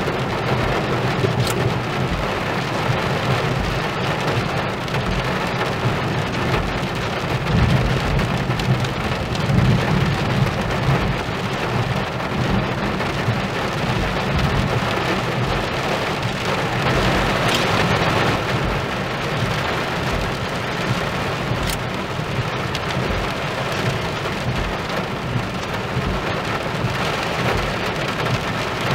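Heavy thunderstorm rain pouring down steadily, with a low rumble of thunder swelling about eight to eleven seconds in.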